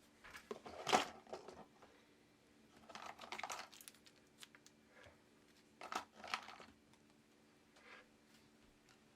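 Handling noise at a leatherworking bench: rustling and light clicks as materials and tools are picked up and moved, in three short bursts with a smaller one near the end, over a faint steady hum.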